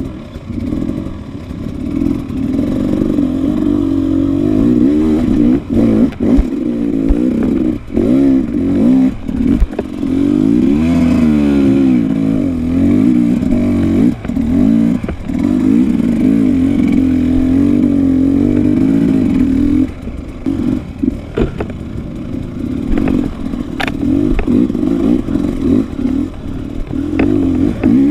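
Dirt bike engine being ridden hard off-road, its pitch rising and falling as the throttle is worked, with scattered clattering knocks. The engine eases off about twenty seconds in, then picks up again.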